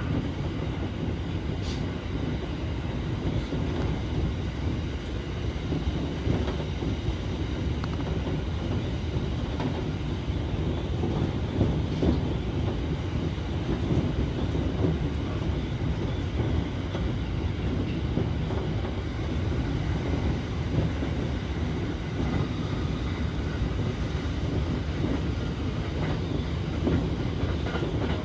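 Electric commuter train running on the line, heard from inside the car: a steady low rumble of wheels on rail, with a few faint clicks.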